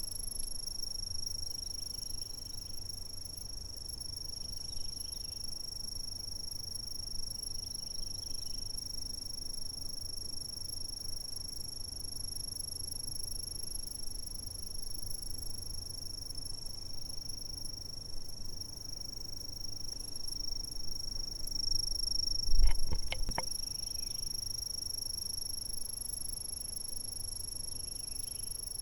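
Chorus of chirping insects: a continuous, steady high trill, with fainter chirps repeating every couple of seconds beneath it and a low rumble. About three-quarters of the way through, a brief cluster of sharp clicks stands out as the loudest sound.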